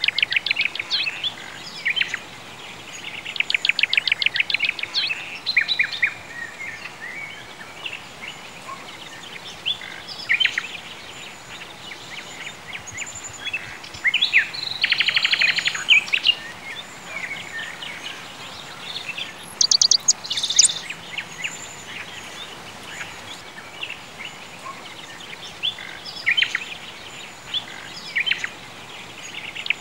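Birds singing: several bursts of rapid chirping trills a few seconds apart, with scattered single chirps, over a faint steady hiss.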